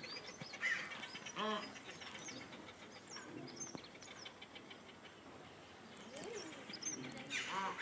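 Small birds chirping outdoors: short high chirps scattered through, with a louder arched call about a second and a half in and another near the end.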